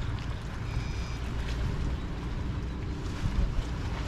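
Wind buffeting the microphone over the wash of harbor water and surf, a dense low rumble with a few stronger gusts near the end. A faint, brief high chirp sounds about a second in.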